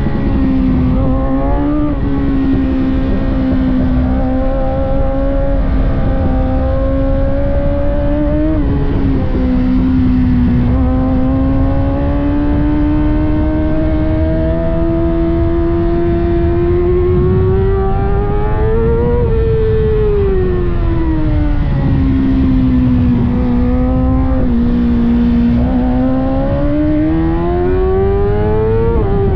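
600cc inline-four sport bike engine at race pace. Its note climbs steadily through the revs and drops sharply at each gear change, about 2, 8, 25 and 29 seconds in. Around 19 seconds in the revs fall away for a corner, then pull up again, over a constant low rush.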